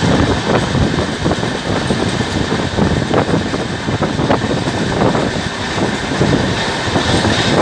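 Express passenger coach running at speed, heard from its open doorway: a steady rumble and rush of wind with irregular clicks and clanks of the wheels over the rails.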